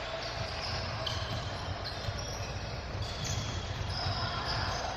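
Basketball bouncing on a gym floor during a game, over a steady background din of the hall.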